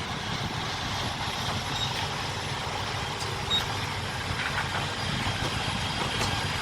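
Heavy diesel truck engine idling with a steady low rumble, with a few faint clicks and knocks over it.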